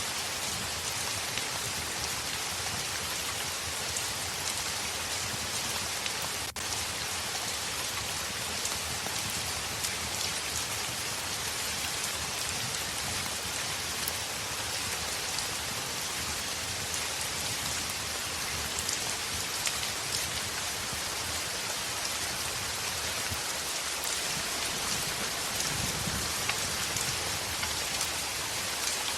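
Heavy rain on a window: a steady, dense hiss with many small drop ticks, and a brief low rumble near the end.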